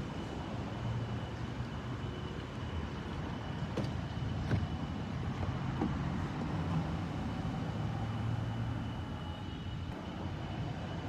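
A vehicle engine running steadily with a low rumble and a faint steady high whine. A couple of sharp clicks come about four seconds in.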